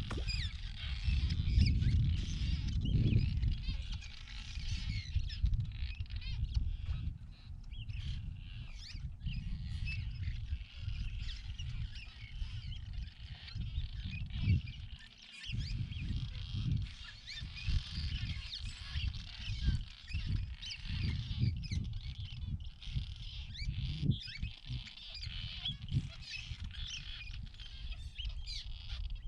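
A colony of swallows calling: many short, high chirps overlapping without a break. A low rumble runs underneath, strongest in the first few seconds.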